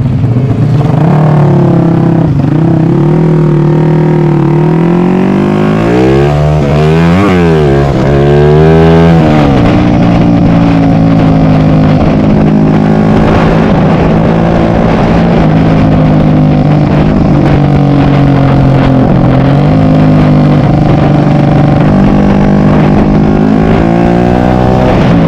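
Yamaha MX King motorcycle, its engine bored up to 300cc, running under way. It holds a fairly steady pitch, the revs swing down and back up sharply about six to nine seconds in, and climb again near the end.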